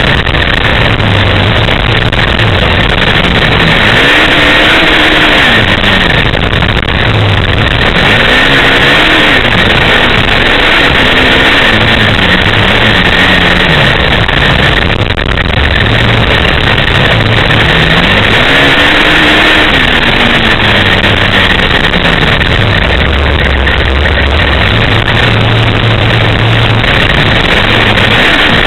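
An off-road vehicle engine running hard, its revs climbing and falling in long swells every few seconds. A loud, steady rushing noise runs under it.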